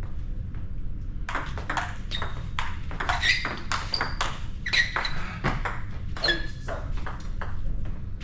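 A rally on a squash court: a fast run of racket strikes and ball hits off the walls, sharp and ringing, picking up about a second in. Short high squeaks of court shoes on the floor sound among the hits.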